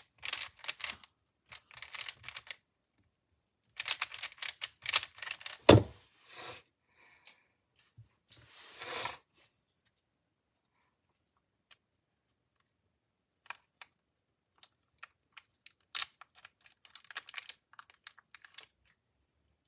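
Plastic clatter of a MoYu V5 speedcube being turned quickly in bursts of rapid clicks. There is one loud thump about six seconds in, and sparser turning near the end.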